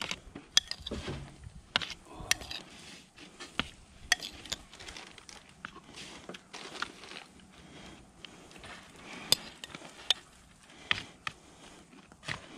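Scattered clinks and knocks of utensils and dishes being handled: a dozen or so sharp, irregular taps over a low background.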